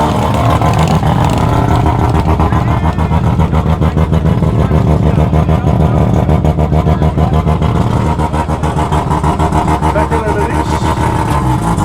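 A muscle car's engine idling loudly and close by, with a fast, uneven pulsing beat.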